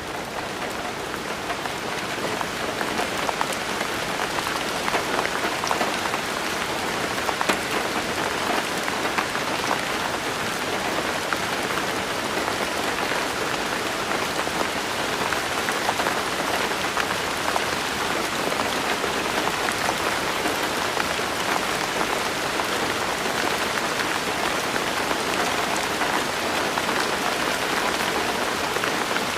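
Steady rain falling, a dense even hiss dotted with many individual drop hits, swelling over the first few seconds and then holding steady.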